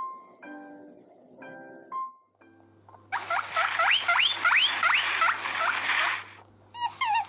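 A short musical jingle of chime-like notes, then a guinea pig wheeking: a quick series of about seven high rising squeaks over a steady low hum.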